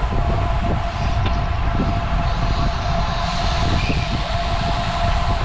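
Wind buffeting the microphone of a cyclist riding a road bike at speed, a steady rushing rumble with a thin steady hum underneath.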